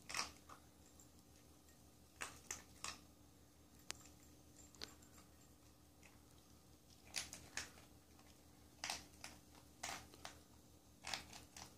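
A puppy chewing dog food: faint crunches and clicks in short clusters every second or two.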